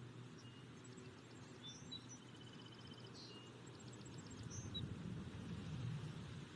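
Faint background of small birds chirping, with short high chirps and a quick trill, over a low rumble that swells a few seconds in.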